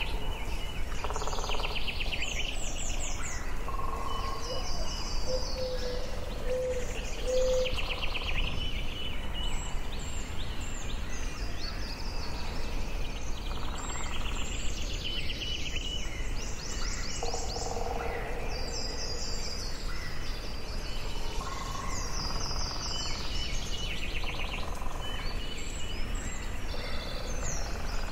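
Forest birds singing and calling: several overlapping trilled phrases and high chirps, with a few lower whistled notes, over a steady background hiss.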